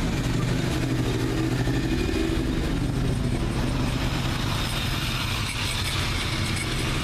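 Car engines idling steadily, with other road traffic passing.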